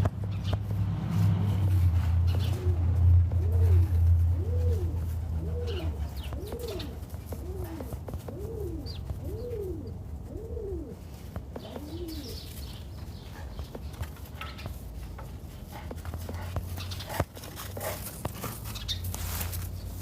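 A dove cooing: a run of about nine short coos, each rising and falling in pitch, roughly one a second, over a low steady hum.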